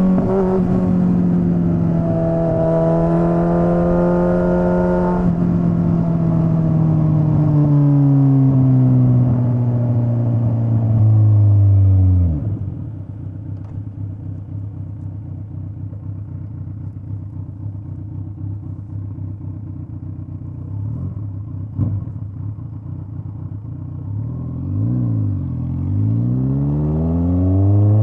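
Straight-piped Kawasaki Z900's inline-four engine slowing down, its pitch falling steadily for about twelve seconds, then dropping to a steady idle. Near the end it revs up and down a few times and climbs again as it pulls away.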